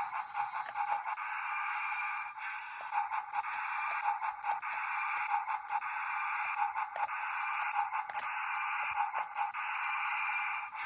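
Small battery motor of a Brio toy locomotive running steadily as it drives along wooden track, with scattered light clicks from the wheels and track.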